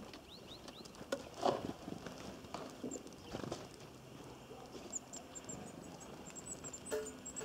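Small birds at a feeder: irregular taps and knocks, a few quick downward chirps near the start, and a run of very high, thin call notes from about five seconds in.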